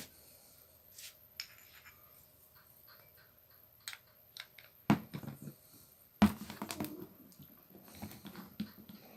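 Scattered light clicks and metal clinks of a wrench and angle-grinder parts being handled, with two sharper knocks about five and six seconds in and a short clatter after the second, as a 10 mm open-end wrench is worked against a tight nut on the grinder's armature.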